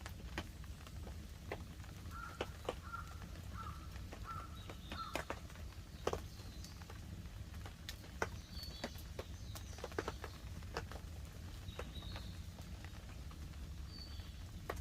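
Wood campfire crackling, with irregular sharp pops and snaps over a steady low rumble. Short bird chirps are heard now and then, most of them in the first third.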